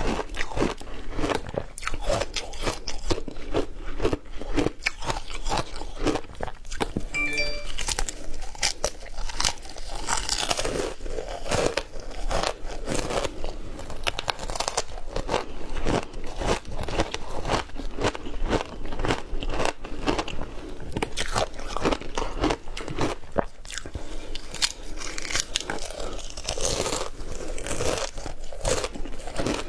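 Close-up crunching of frozen matcha ice being bitten and chewed: a continuous run of crisp cracks and crunches.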